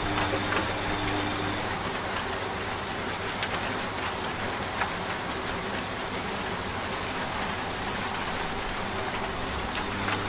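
Steady rain with scattered drop ticks, mixed with a washing machine's low steady hum. The hum stops about a second and a half in and comes back near the end.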